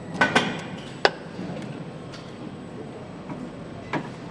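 Sharp knocks and clicks of tools and parts being handled during motorcycle engine assembly: a quick pair near the start, a sharp single knock about a second in, and another near the end, over a low steady workshop background.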